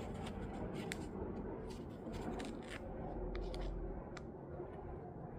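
Rustling and scattered light clicks of fabric being handled and wrapped around scooter handlebars.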